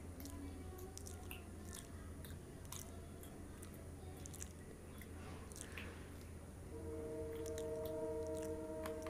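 Close-up chewing and biting of a soft pav bun sandwich, with many short wet mouth clicks and smacks. A steady tone of a few pitches comes in under the chewing near the end.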